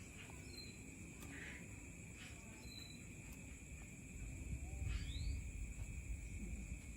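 Outdoor ambience: a few short, high bird chirps and one rising whistle about five seconds in, over a steady high buzzing drone. A low rumble swells from about four seconds in and is the loudest part.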